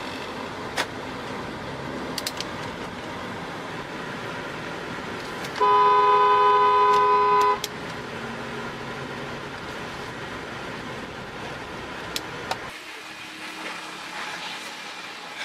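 A vehicle horn sounds one steady blast of about two seconds, loud over a steady background noise, with a few sharp clicks before and after it.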